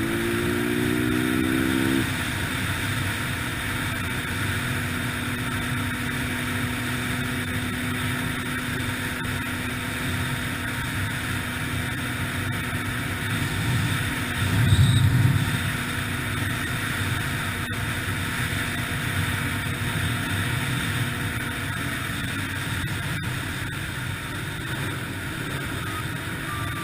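A 2003 Yamaha TTR-125LE dirt bike's single-cylinder four-stroke engine running while riding. It revs up in the first couple of seconds, then holds a steady pitch. There is a brief, louder low rumble about halfway through.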